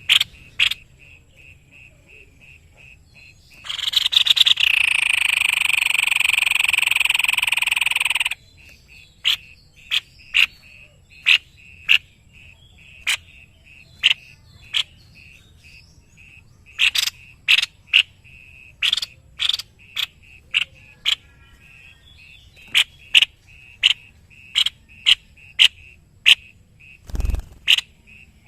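White-necked babbler calling: a string of short, sharp notes repeated at uneven intervals, with one long, loud buzzy chatter lasting about four seconds near the start. A faint, steady pulsing call runs underneath, and a single low thump comes near the end.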